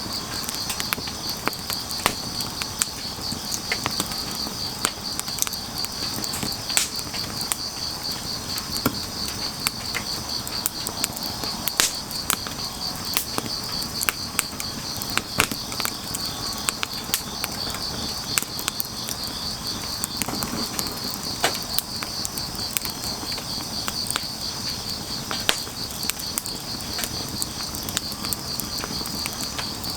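Firewood burning with irregular crackles and sharp pops, over a steady high pulsing trill of crickets.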